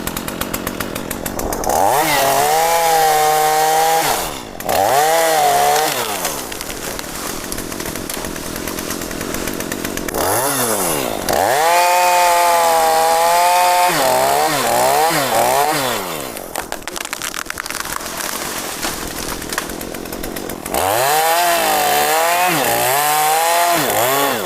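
Two-stroke chainsaw revved to full throttle in three long bursts, its pitch sagging and recovering as it cuts mahogany wood, dropping back to a low idle between bursts.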